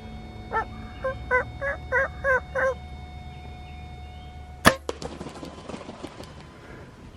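Wild turkey calling a quick series of seven yelps. About two seconds later comes the single sharp crack of a compound bow being shot, followed by scattered rustling and scuffing.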